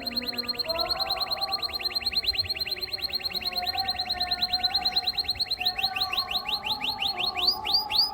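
Canary singing a long, fast trill of repeated downward-sweeping notes, more than ten a second, that slows to wider, slower notes near the end.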